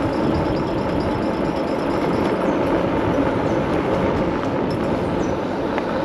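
Steady wind and road rumble while riding an electric bike at speed, with the air rushing over the microphone.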